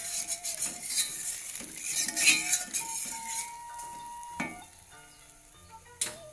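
Omelette frying in hot oil in a metal wok, sizzling and crackling while a metal spatula scrapes and turns it. The sizzle dies down after about three and a half seconds, and a single sharp click comes near the end.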